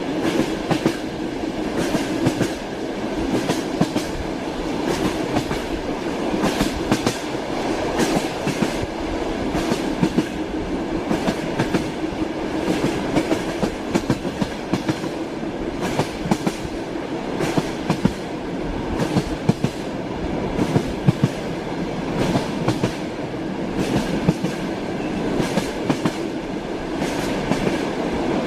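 Passenger train wheels clattering over the rails under a steady running rumble, heard from inside a moving railway carriage. The clicks come thick and irregular throughout.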